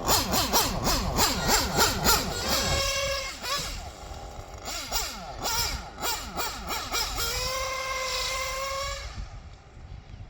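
Small two-stroke O.S. R21 GT nitro engine in an RC car, revving up and down in quick rising and falling bursts. Twice it holds a steady high whine for about a second, and it fades off near the end.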